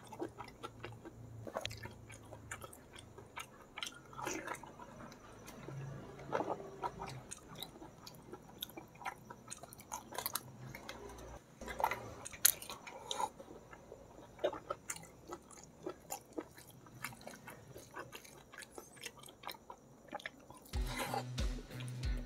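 Close-miked mouth sounds of a person chewing and biting cooked squid, with irregular wet smacks and clicks as the chewy flesh is worked.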